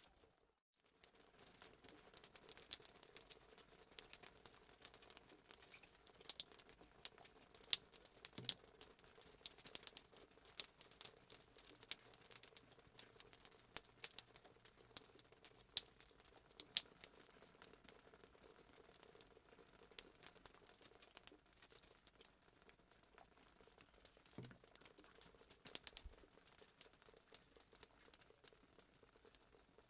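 Fireplace sound effect: a wood fire crackling, with dense irregular sharp pops. It drops out briefly about half a second in.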